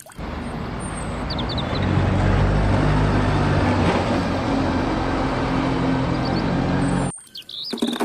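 Single-decker city bus driving past, its diesel engine running with a steady low hum that grows louder about two seconds in, with a few bird chirps behind it. The sound cuts off suddenly about a second before the end.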